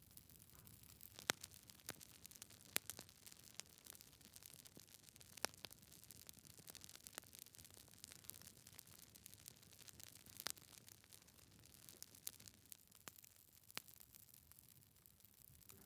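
Wood fire burning in a fireplace: logs crackling, with irregular sharp pops over a faint hiss, the loudest a little over a second in and near three seconds.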